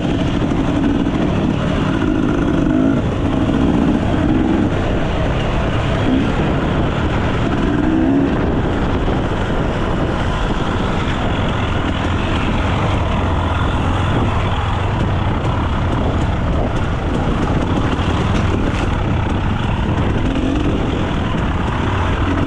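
Enduro dirt bike engine running steadily, its pitch shifting a little now and then.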